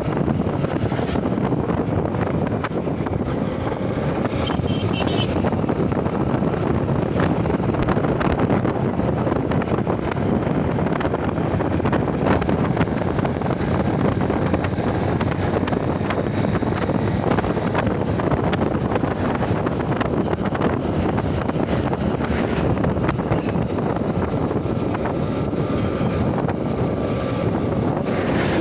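Steady wind rush on the microphone mixed with the engine and road noise of a Honda Shine SP 125, a single-cylinder motorcycle, while it is being ridden.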